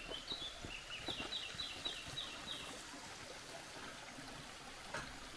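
A small bird singing a quick run of about ten high chirps over the first three seconds, over faint footsteps on a dirt trail.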